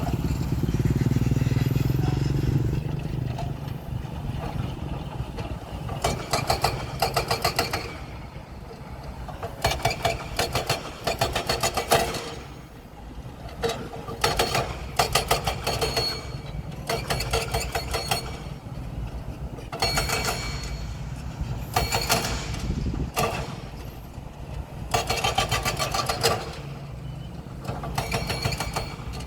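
Diesel engine of heavy earthmoving machinery running steadily, its pitch rising briefly near the start, with repeated spells of rapid clattering, each a second or two long.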